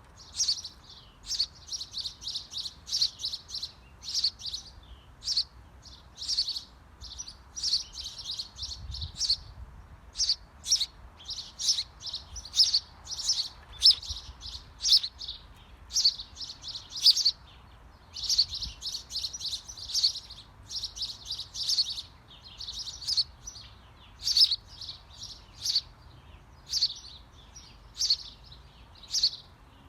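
Small birds chirping in quick runs of short, high chirps, with brief pauses between the runs.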